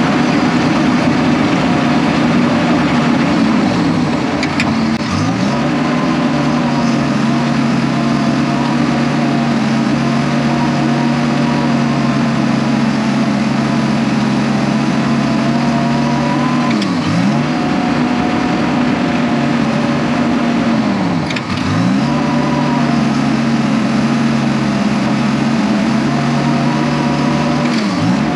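Diesel engine of a Case 750H crawler dozer running hard while pushing dirt. Its pitch dips sharply and recovers about four times as the engine lugs under load.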